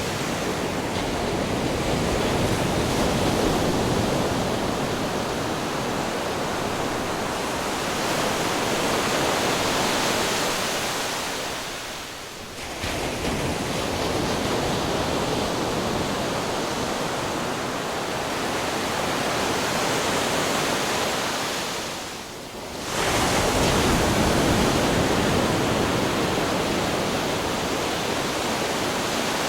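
Ocean waves crashing onto rocks in a continuous loud roar of surf. Twice the roar briefly falls away and then surges back as the next wave breaks.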